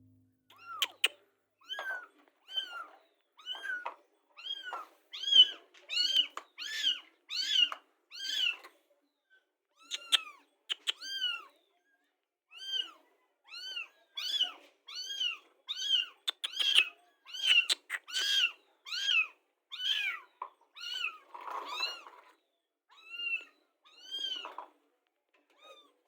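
A kitten mewing over and over: short, high calls that rise and fall in pitch, about one or two a second, with a few brief pauses.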